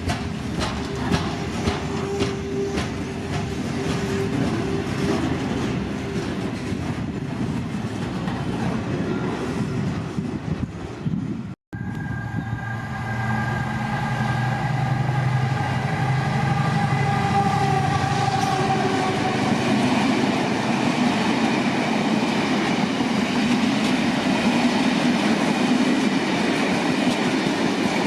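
Freight train wagons rolling past, their wheels clicking over the rail joints. About twelve seconds in the sound cuts to another train passing with a steady drone and held pitched tones that grow louder.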